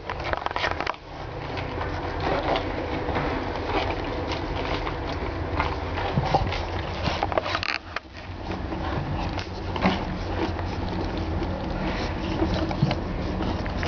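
French bulldog puppies scuffling and moving about, with many small clicks and scrapes over a steady low hum.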